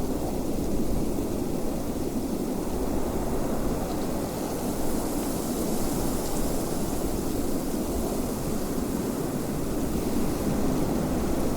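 Steady wind, a low rushing noise without breaks or sharp gusts.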